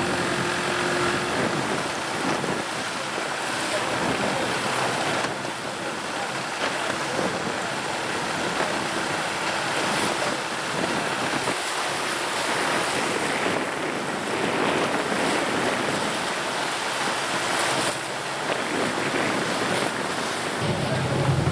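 Sea water washing and splashing with wind on the microphone, a steady rushing noise that shifts abruptly about five seconds in and again near the end.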